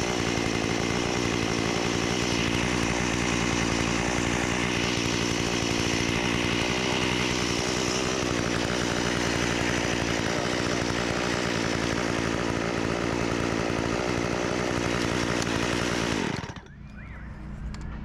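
Chainsaw running steadily for about sixteen seconds, then winding down and cutting off near the end.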